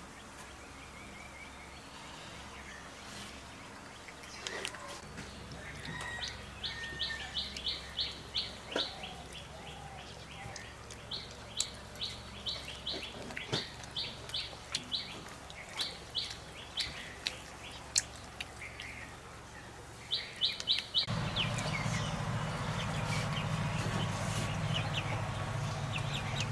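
A small bird chirping in quick runs of short high notes, several runs in a row. A steady low hum comes in near the end.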